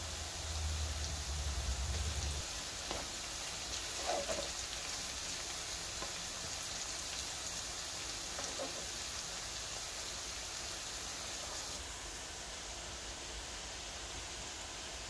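Onions and chopped garlic sizzling in hot oil in a wok: a steady crackling hiss, with a couple of light touches of a stirring spoon. A low hum sounds for the first two seconds or so.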